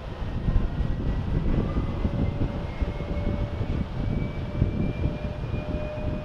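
Jet airliner engines: a loud, rough rumble with a thin whine that slowly rises in pitch.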